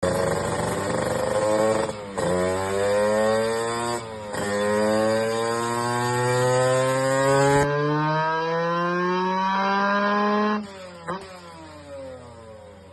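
Kawasaki Ninja RR 150 single-cylinder two-stroke engine with an HBY titanium racing exhaust on a dyno, revving up through the gears: two brief dips in pitch at the shifts about 2 and 4 seconds in, then a long rising pull. About ten and a half seconds in the throttle shuts, a short blip follows, and the revs fall away.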